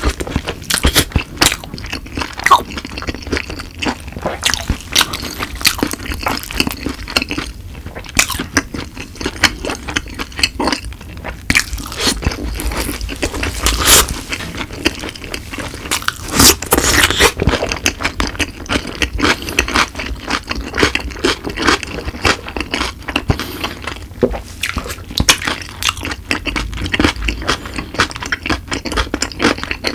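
Close-miked biting and chewing of boneless yangnyeom fried chicken, with many sharp crunches of the crisp coating coming in an uneven rhythm.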